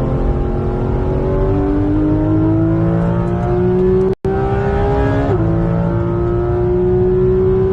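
Porsche 911 GT3 RS's flat-six engine pulling steadily, its note rising slowly, then dropping in pitch after about five seconds as it shifts up and climbs again. The sound cuts out completely for an instant about four seconds in.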